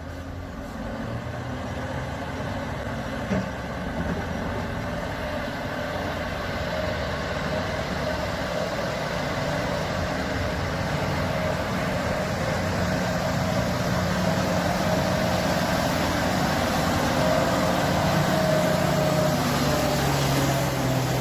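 A heavy vehicle's engine running steadily, slowly getting louder.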